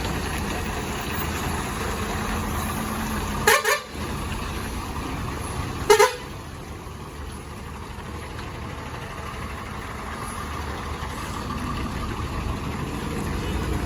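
Two short vehicle horn toots, about two and a half seconds apart, over steady engine and road noise from the traffic.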